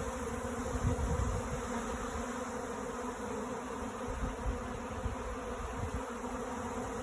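Swarm of honeybees flying in the air around the hive, a steady dense buzzing, with wind on the microphone. The queen is trapped in the hive by a queen excluder, so the swarm is returning to it.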